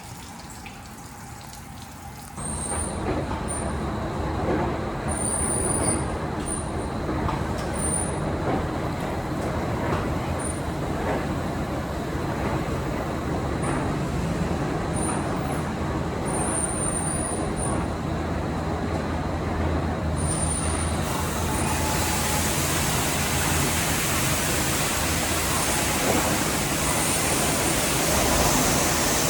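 Car wash tunnel equipment running: a steady rush of water spray and machinery that starts abruptly a couple of seconds in, with short high squeaks over it. About 21 seconds in the rush turns hissier.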